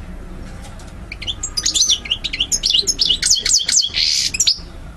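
European goldfinch singing: a burst of rapid, liquid twittering notes lasting about three and a half seconds, with a harsh buzzy note near the end.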